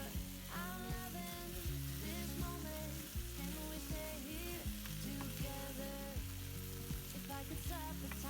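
Food sizzling as it fries in oil in a pan, a steady crackling hiss, under background pop music with a singing voice.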